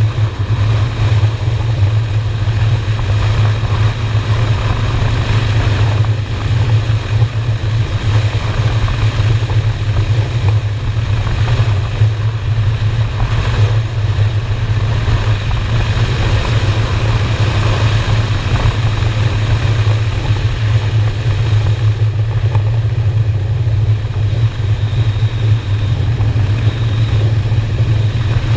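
Honda Shadow V-twin motorcycle engine running steadily at cruising speed, with a steady deep note and a rush of wind and road noise.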